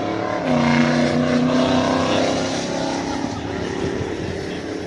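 A car engine running close by, its pitch rising about half a second in and then holding steady before easing off.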